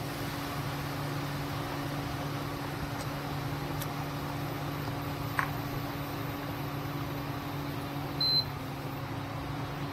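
Ground tomato and chili paste frying in hot oil in a kadhai, bubbling over a steady low mechanical hum, with a short high beep about eight seconds in.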